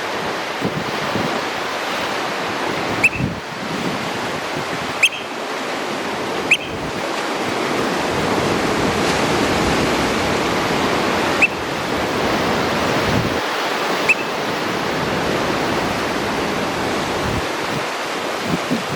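Surf washing steadily over rocks, with five short, shrill high calls of an oystercatcher scattered through it.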